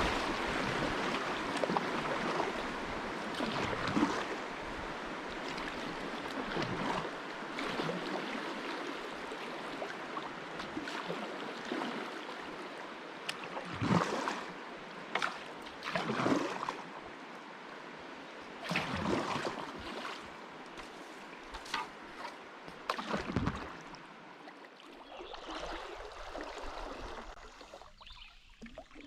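Kayak paddling on a river: moving water rushing steadily and slowly fading, with paddle strokes splashing every few seconds.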